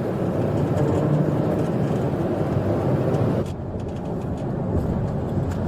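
Steady engine and road noise from a car in a high-speed police chase. The higher hiss drops away abruptly about three and a half seconds in.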